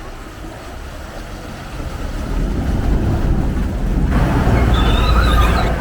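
Passenger boat's engine running with a low rumble that grows louder about two seconds in, joined about four seconds in by a louder rush with a few high wavering tones.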